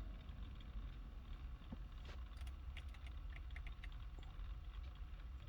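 A faint, steady low rumble in a car cabin, with a cluster of small sharp clicks between about two and four seconds in.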